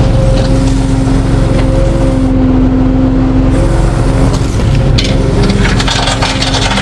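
A vehicle engine running steadily, with humming tones over a low rumble. From about five seconds in, crackling and scraping noises join it.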